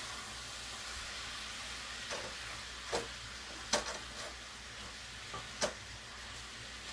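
Sausage, onions and peppers sizzling steadily in a cast iron skillet as they are heated through, while a wooden spatula stirs and breaks up the meat. A few sharp clicks of the spatula against the pan.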